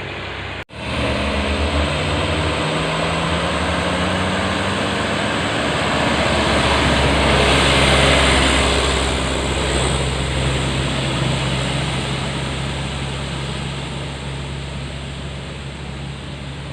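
Isuzu dump truck's diesel engine running hard under a load of boulders, growing louder to a peak about halfway through and then slowly fading.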